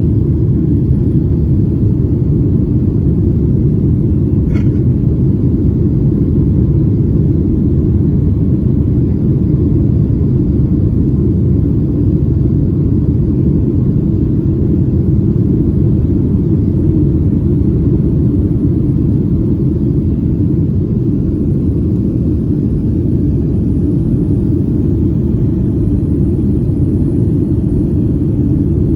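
Steady low rumble of a Boeing 737's engines and airflow heard inside the passenger cabin in flight.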